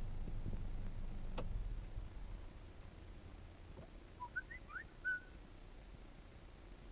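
A bird gives a few short, high chirps about four to five seconds in. Before that there is a low rumble that fades after about two seconds, with a single sharp click early on.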